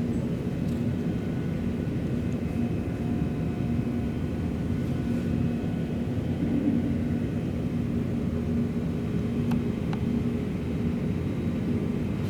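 Steady low mechanical rumble with a faint held hum, even throughout, with a couple of faint ticks.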